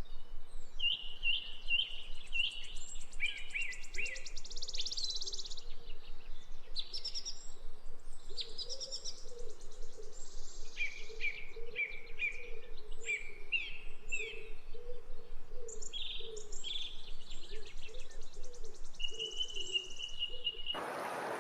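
Songbirds singing: a busy mix of short repeated chirps, fast trills and clear whistles, one whistle held steady near the end, over a low wavering sound underneath. Near the end it cuts abruptly to a broad hiss.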